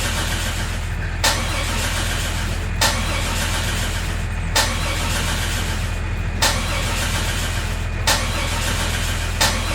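Small engine of a mini tractor running steadily, with a sharp click about every one and a half to two seconds.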